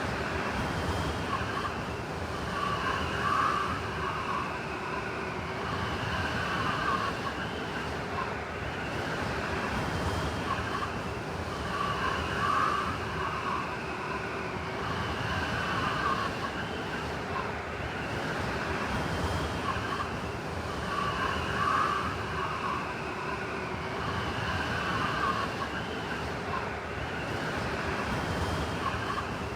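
Blizzard wind blowing steadily, with a high whistling howl that swells and fades about every nine seconds.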